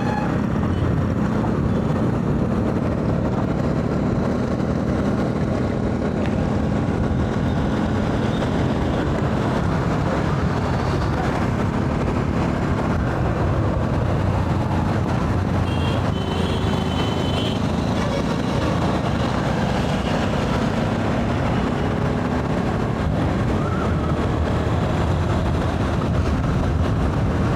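Steady wind and road noise of a motorcycle ride, with the Pulsar 200 NS's single-cylinder engine running under way. A brief higher tone, like a passing vehicle's horn, comes about two-thirds of the way in.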